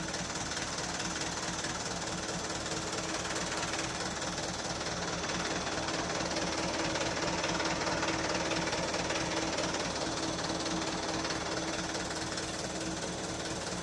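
Small motorcycle engine running steadily with a fast, even pulse, growing a little louder midway.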